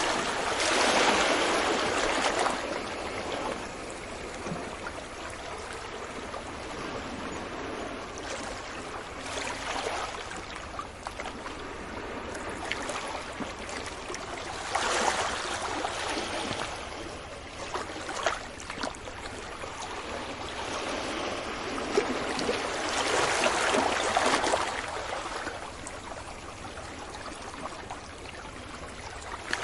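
Sea waves breaking on a beach: a steady wash of surf that swells four times as waves come in, loudest near the start and again about three quarters of the way through.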